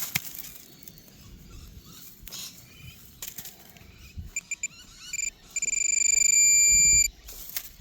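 Metal detector beeping over a buried target: a few short high beeps, then a steady high tone held for about a second and a half, the loudest sound here. A few soft knocks and rustles come earlier.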